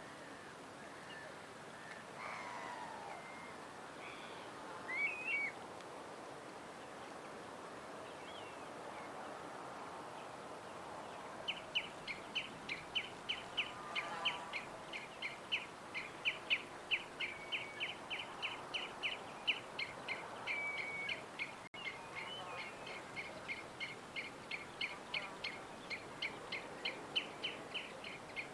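Birds chirping over a steady outdoor background hiss: a few scattered calls early, then from about halfway a long run of sharp, quickly repeated chirps, a few per second.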